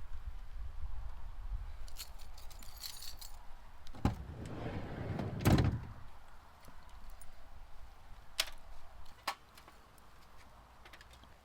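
Keys jangling and a door being opened and shut, with a loud thud about five and a half seconds in, over a low rumble. A few sharp clicks follow.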